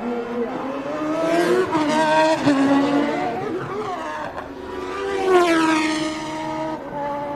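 1990 Formula One cars with 3.5-litre naturally aspirated engines passing at racing speed. There are two pass-bys, the first about a second and a half in and the second about five seconds in, and each engine note drops in pitch as the car goes by.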